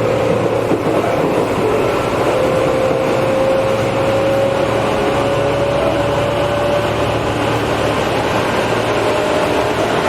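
Tobu 8000 series electric train heard from inside the car, running between stations: a steady rumble of wheels on rail and running gear, with a thin tone that slowly rises in pitch from about two seconds in until about seven seconds in.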